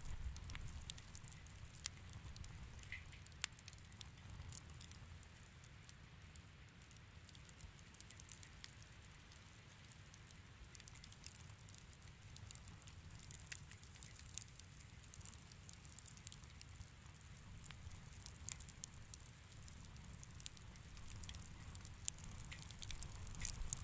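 Wood fire in a fireplace crackling softly: scattered small pops and snaps over a faint steady low rumble of the flames.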